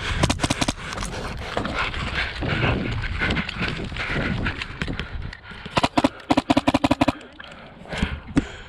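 Airsoft guns firing: a quick run of shots right at the start, then a longer rapid full-auto burst of about a dozen shots, about nine a second, with a steady motor whine under it, near the end. Between them, noisy movement in the field.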